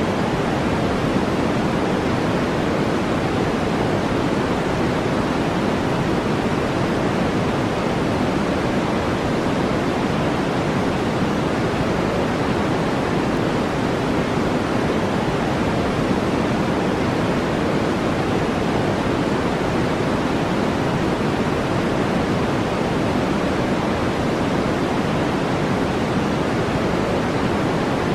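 Steady synthetic noise track: an even, deep hiss that never changes.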